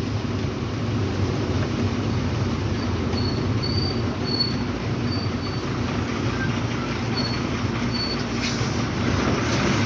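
Lorry engine and road noise heard from inside the cab while the truck is driving, a steady hum and rumble.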